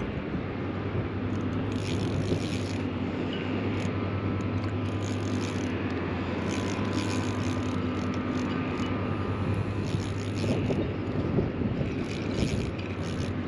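Strong wind on the microphone, a steady rumble with a low hum under it and a few brief scratchy bursts.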